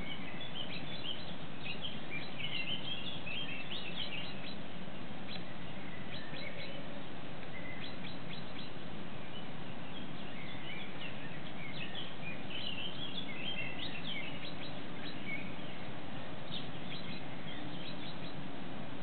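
Small birds chirping in short runs of quick notes, several times, over a steady hiss.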